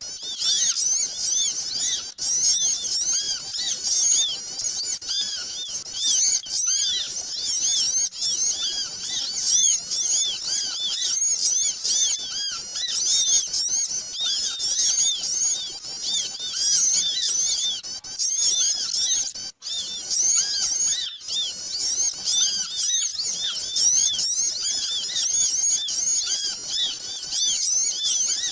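Bird-lure recording of a crowd of small birds chirping busily over one another: a dense, unbroken stream of short, high chirps, with a momentary break about two-thirds through. Recordings like this are played to draw small birds in.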